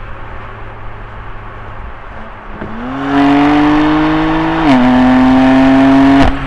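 BMW M2 Competition's twin-turbo straight-six heard from inside the cabin: a steady cruising drone, then under hard acceleration the engine note gets loud and rises, drops once with a click at an upshift, climbs again and cuts off abruptly near the end, back to the drone.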